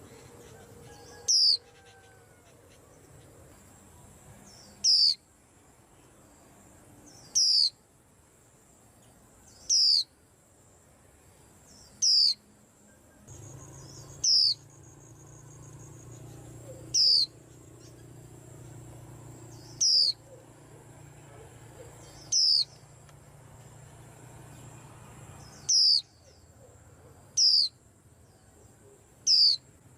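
A white-eye repeating a short, high, falling call twelve times, about every two to three seconds. Beneath it runs a faint steady high tone, and a low hum comes in through the middle stretch.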